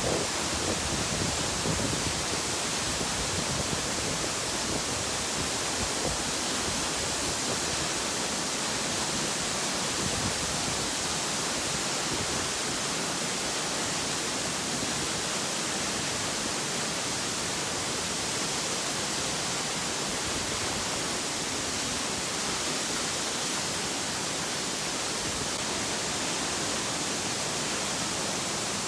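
Nachi Falls, a tall waterfall, pouring steadily: a constant, even rush of falling water with no breaks.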